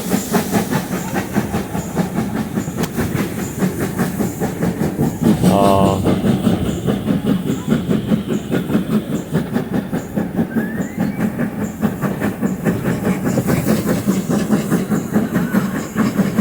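Steam locomotive working hard up a steep gradient, a fast, steady beat of exhaust chuffs with hiss and the clatter of the train on the rails.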